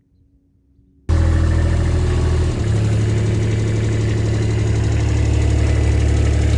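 Near silence for about a second, then a vehicle engine running steadily at idle, cutting in abruptly and loudly.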